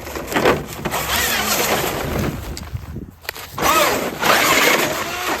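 A Traxxas Slash radio-controlled truck driving hard over rough ground, its motor whining up and down in pitch as the throttle is worked, with tyre and terrain noise underneath. It drops off briefly about halfway through, then revs hard again.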